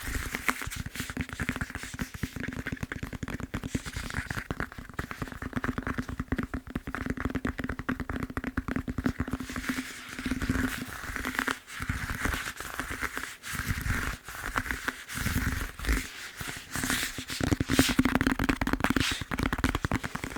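Fast fingertip tapping on a foam massage roller: a dense, unbroken run of quick taps with a hollow ring.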